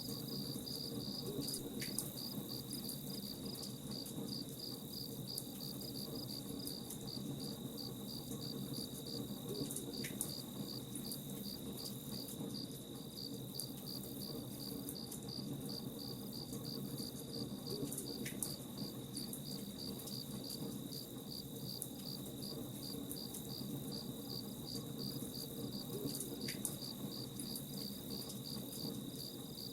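Crickets chirping in an even, pulsing rhythm over a campfire crackling softly.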